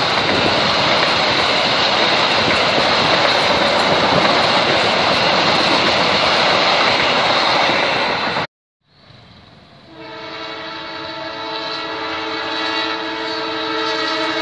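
Passenger train coaches rushing past close by: a loud, steady rush of wheels on rail. After a short break a distant train horn sounds, a held chord of several tones that grows louder as the train approaches.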